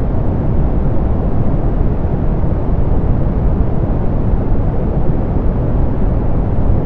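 Steady synthetic pink noise, softened so its energy sits mostly in the lows and fades off through the highs, with no change or events.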